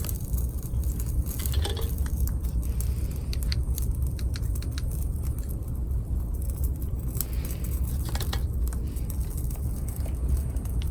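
Wood campfire crackling, with scattered sharp pops that come thickest in two clusters, a few seconds in and again near the end, over a steady low rumble.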